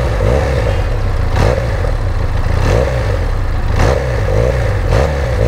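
Benelli TRK 502's 500 cc twin-cylinder engine, stationary, revved in about four short throttle blips that rise and fall back over its idle.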